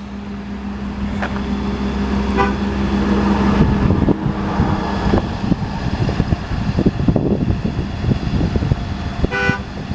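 Mechanics truck's body-mounted air compressor running along with the crane's hydraulic pumps. A steady hum gives way about halfway through to an uneven, choppy pulsing, with a few short beeps. The compressor is still on, which keeps the crane from being moved.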